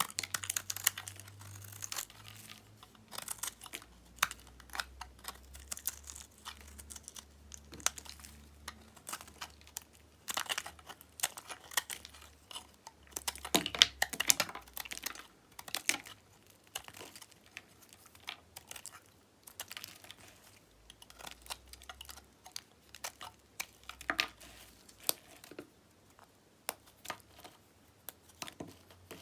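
Dyed bar soap being cut with a knife: an irregular run of crisp crackling clicks as the blade cuts and the soap breaks away, busiest in the middle.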